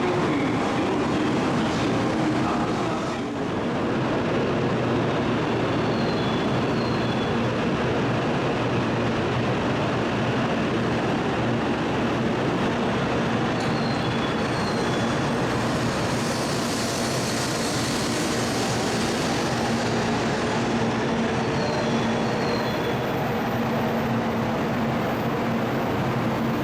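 Kyushu Shinkansen high-speed train running, a steady rumble of wheels and running gear with a brighter rush for a few seconds past the middle. A faint pair of short high beeps repeats about every eight seconds.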